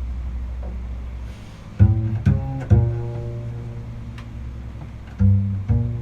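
Contrabass strung with gut strings played pizzicato: a low note rings and fades, then five plucked notes in two short groups, each ringing on after its sharp attack.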